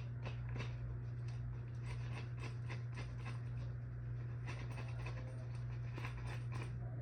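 A steady low hum with many light clicks and taps scattered through it, as of small things being handled.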